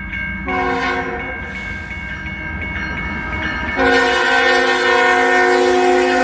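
Freight locomotive's multi-chime air horn sounding for a grade crossing: a blast about half a second in, then a louder, longer blast from about four seconds in, over the low rumble of the approaching train.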